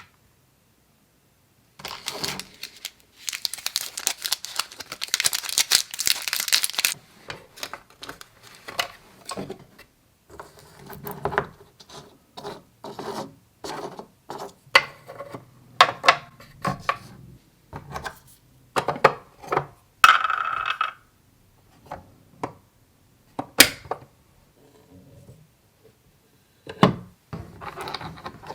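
Small plastic toy kitchen pieces being handled: a few seconds of crinkling, like plastic packaging being pulled open, then a run of light clicks, taps and knocks as the pieces are picked up and set down, with a short squeak about two-thirds of the way through.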